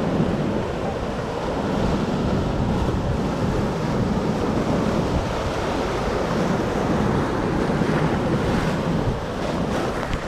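Rough storm surf breaking and washing up the beach, with wind buffeting the microphone.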